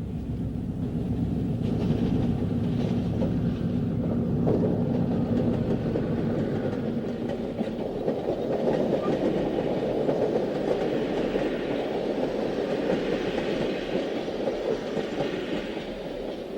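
Diesel-hauled passenger train going by: a steady engine hum for the first several seconds, then the cars' wheels rumbling and clicking over the rail joints.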